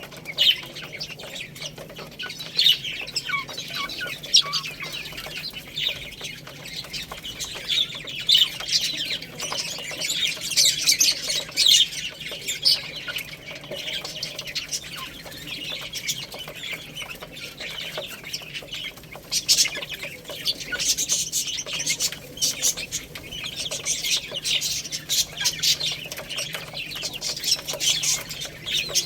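Baby chicks chirping nonstop: many short, high peeps overlapping, with a faint steady low hum underneath.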